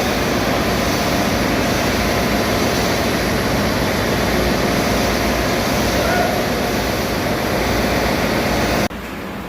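Steady, loud machinery roar of a ship's engine room, with a low hum under it. It drops off suddenly near the end.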